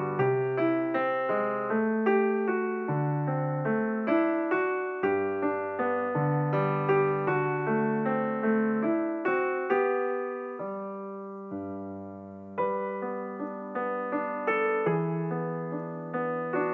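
Background piano music: a slow run of single struck notes over low bass notes. About ten seconds in it rests on one chord that fades for a couple of seconds, then the notes pick up again.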